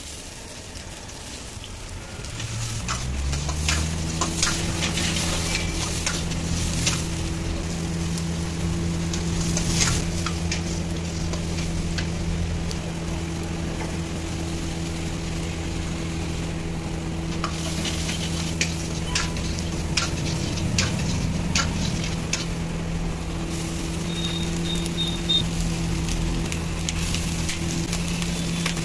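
Vegetables sizzling as they fry in oil in a wok over a high gas flame, with a metal ladle clicking and scraping against the pan as they are stirred. A steady low hum sets in a few seconds in.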